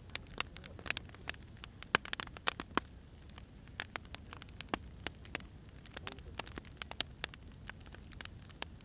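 Firewood burning, crackling with irregular sharp pops and snaps over a low, steady rumble of the flames.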